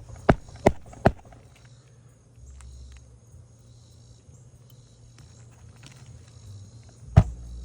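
Hammer driving roofing nails back into an asphalt shingle: three quick blows about 0.4 s apart in the first second or so, a pause, then another blow near the end.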